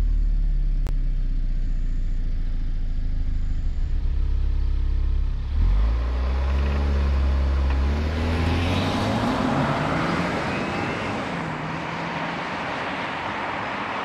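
2022 Genesis G70 Shooting Brake's 2.0-litre turbo-petrol four-cylinder accelerating hard away under full throttle. The engine note dips briefly at a gearshift of its eight-speed automatic about five and a half seconds in, then climbs again and slowly fades as the car pulls away into the distance.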